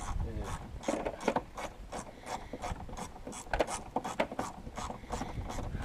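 Socket ratchet clicking in quick, uneven runs as bolts are undone on a car's front end.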